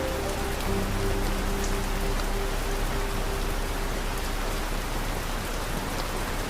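Steady rain falling, an even hiss with a few faint drips. Soft sustained low music notes sound under it for the first couple of seconds, then fade out.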